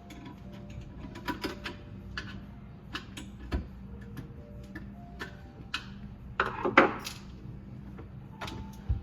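Irregular metallic clicks, knocks and scrapes from handling a jammed garbage disposal's grinding plate and impellers, with a louder scraping rattle about six and a half seconds in, over a steady low hum.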